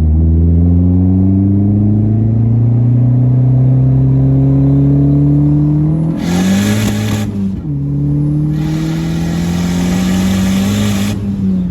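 Big-turbo Dodge SRT-4's turbocharged four-cylinder accelerating hard. Engine pitch climbs steadily for about six seconds, with a loud rushing hiss coming in about six seconds in. After an upshift the pitch drops, then climbs again under boost with the rushing hiss over it until near the end.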